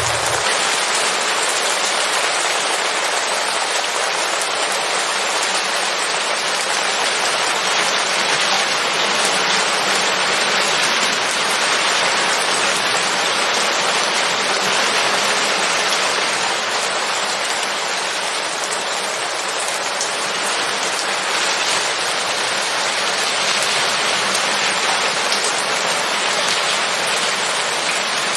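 Steady rain falling, an even hiss of many drops without a break. A low rumble stops just after the start.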